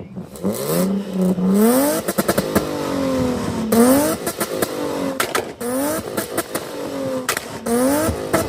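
A car engine revved hard again and again, its pitch climbing and dropping about six times, with sharp cracks and pops between the revs.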